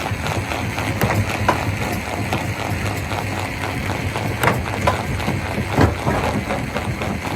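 Stone crusher machine running: a steady low mechanical hum under a dense, rapid clatter of rock, with a few louder knocks.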